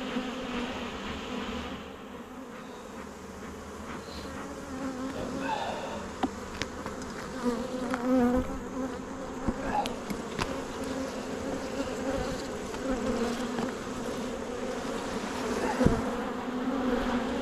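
Honeybees buzzing around an open hive: a steady hum that wavers in pitch, with a few short clicks.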